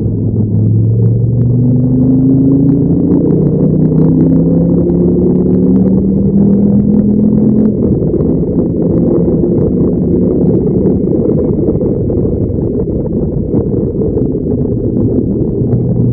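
Dodge Viper SRT10's V10 engine at full throttle, pulling out of a corner with its note rising in pitch for several seconds. It then gives way to a steadier, rougher rush at speed on the straight, heard through a camera mounted on the outside of the car.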